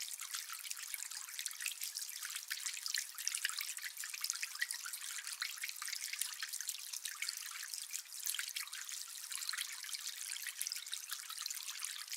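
Water trickling and dripping steadily down the tiers of a layered slate pyramid fountain: a dense, even patter of many small splashes, light and high with no deep tones.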